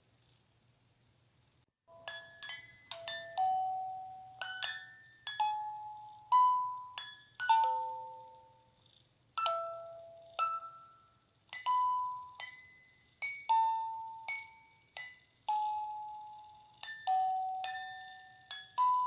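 A slow lullaby melody of bell-like chime notes, each struck and ringing away before the next, starting about two seconds in after a near-silent gap.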